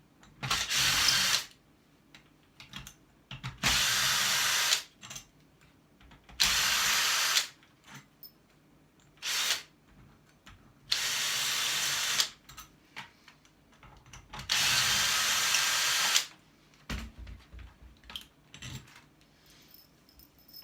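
A handheld power tool, run like a drill, in six short bursts of about a second each, with handling clicks and knocks between them, while a scrapped transformer is worked on.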